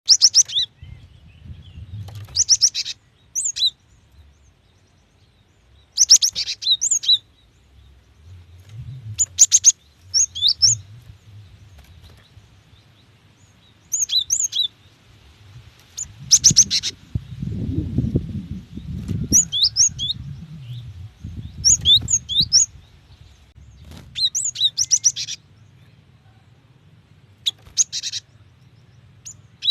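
Female cinereous tit (gelatik batu) calling. Short bursts of rapid, high chattering notes alternate with sharp down-slurred whistles, repeated every few seconds. A low rumble runs under the calls for several seconds in the middle.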